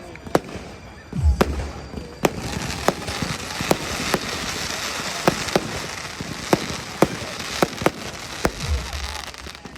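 Fireworks display: a run of sharp bangs, one or two a second, with a fizzing crackle from about two and a half seconds in to about eight seconds, and two deep booms, one about a second in and one near the end.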